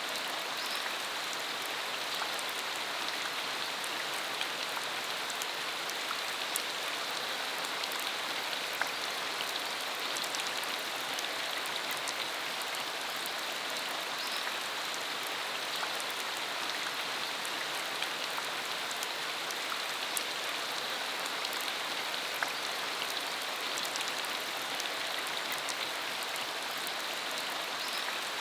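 Steady rain falling on a dirt country road: an even hiss with scattered ticks of individual drops.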